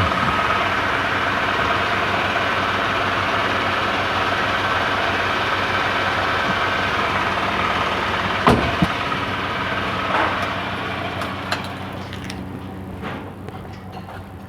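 Suzuki Super Carry pickup's engine running steadily. A sharp knock comes about eight and a half seconds in, and the engine sound fades away over the last few seconds.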